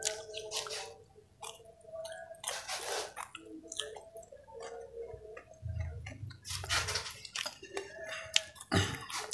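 Close-miked chewing of crispy fried vegetable fritters: irregular crunches mixed with wet mouth smacks and clicks.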